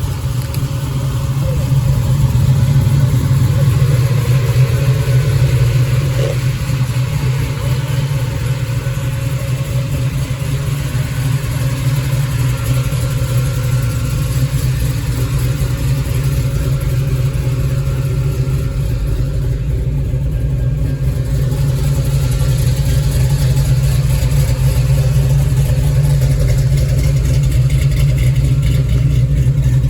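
Car engine idling steadily close by, a loud, even low rumble that holds throughout.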